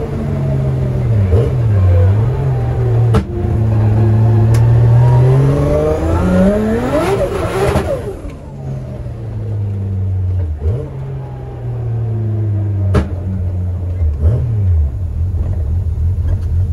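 Nissan Skyline R33's RB25 straight-six, heard from inside the cabin while the car is driven, its revs dipping briefly at gear changes. About seven seconds in it revs up steeply and then drops sharply. A couple of sharp clicks are heard along the way.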